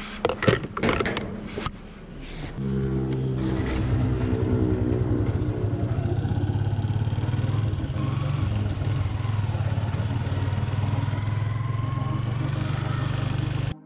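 A few knocks and clatter, then a motorcycle engine starts about two and a half seconds in and runs steadily as the bike pulls away, with a faint rising whine near the end.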